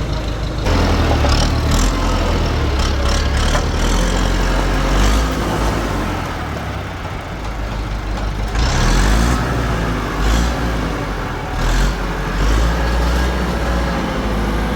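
Heavy engine machinery of a concrete pour (tractor and concrete mixer) running steadily with a deep rumble, with scattered knocks and clatter.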